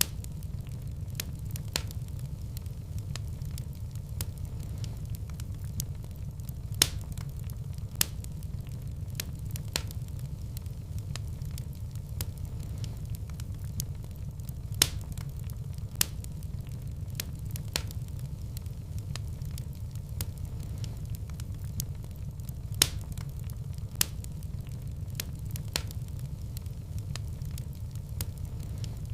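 Wood fire in a fireplace crackling: a steady low rumble of the flames with scattered sharp pops, a few of them much louder than the rest.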